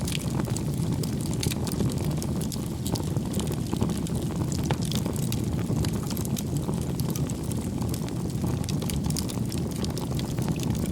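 Wood fire burning in a fireplace: a steady low rumble of flames with many small sharp crackles and pops from the burning firewood.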